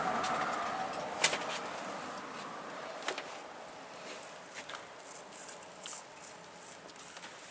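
A car driving past and fading into the distance, followed by a quiet background with a few sharp clicks, the loudest about a second in and another about three seconds in.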